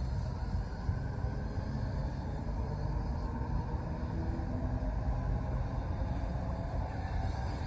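Southeastern Class 395 Javelin high-speed electric train moving along the platform, a steady low rumble of its wheels and running gear.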